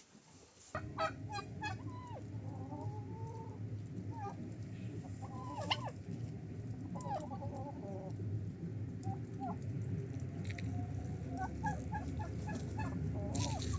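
Farmyard poultry clucking and calling in short, repeated calls over a steady low background noise that starts abruptly about a second in.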